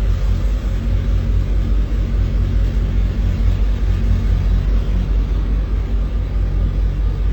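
1965 Plymouth Barracuda's 273 Commando V8 running steadily at idle, a low, even engine note with no change in speed.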